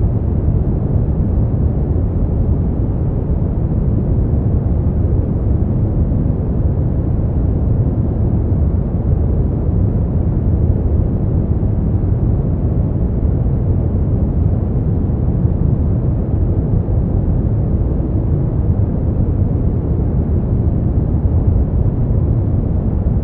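Steady brown noise: an even, deep rumbling hiss, strongest in the bass and fading toward the treble, with no changes.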